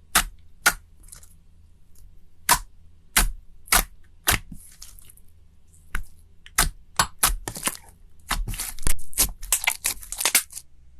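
Crunchy slime being pressed and popped: sharp separate crackles and snaps, spaced irregularly at first, then a rapid run of crackles over the last few seconds.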